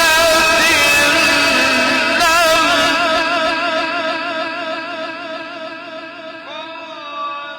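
A male Quran reciter's voice holding a long, ornamented note with a wavering vibrato, slowly trailing off. A new, softer sung phrase begins near the end.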